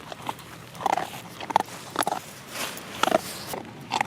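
A large dog making short, breathy snorts and grunts, roughly two a second.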